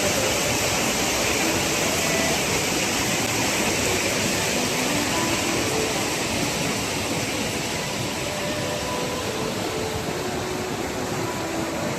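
Steady rushing of flowing stream water, an even hiss without break.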